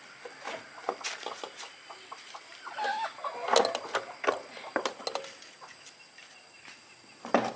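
Chickens clucking, with a short call about three seconds in, among scattered clicks and knocks.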